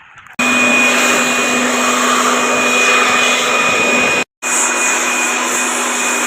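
A small high-speed electric motor moving air: a loud steady rush with a thin whine. It starts abruptly and drops out for a split second about four seconds in before carrying on.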